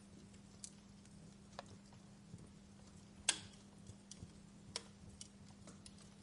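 Wood fire in a fireplace crackling: irregular sharp pops and snaps over a faint hiss, with the loudest pop about three seconds in.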